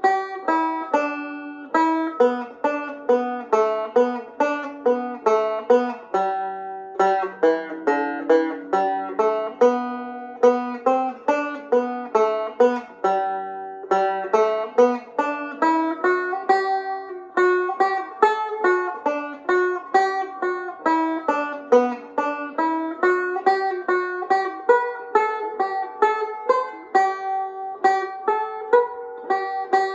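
Irish tenor banjo played solo, picking a reel in G at a slow tempo: a steady run of single plucked notes, several a second.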